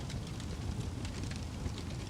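Campfire burning, a steady low rumble of flames with irregular small crackles and pops from the burning wood.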